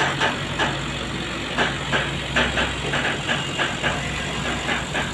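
Heavy diesel engine of a transformer-hauling truck running slowly, a steady low drone with irregular sharp clicks several times a second over it.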